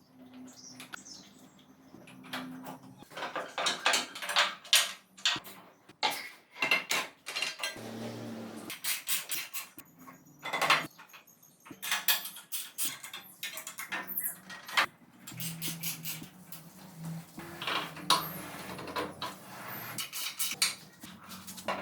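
Metal parts and tools clinking and clattering as they are handled, with many irregular sharp knocks, some in quick runs.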